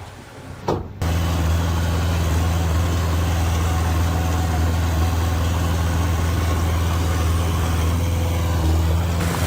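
Heavy diesel engine of earthmoving machinery running steadily at an even low pitch. It cuts in abruptly about a second in, after a short quieter stretch with a single knock.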